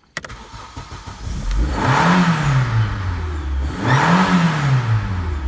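VW Golf 3's 1.8 single-point-injection ADZ four-cylinder engine catching and running, then revved twice, about two seconds apart, each time rising in pitch and falling back to idle.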